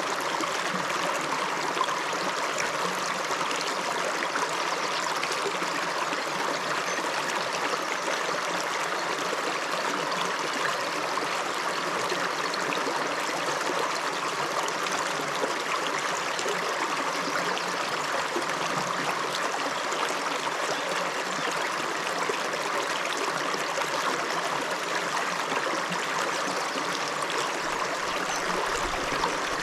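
Small river flowing over rocks: a steady rush of water with trickling and gurgling.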